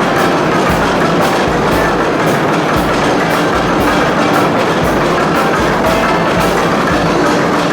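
Old machinery clattering rhythmically, with sharp knocks about twice a second over a loud, steady mechanical din.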